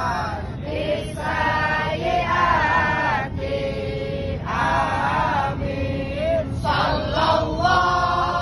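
A group of voices singing a sholawat together in Arabic, in sung phrases with short breaths between them, over a steady low hum of aircraft cabin noise.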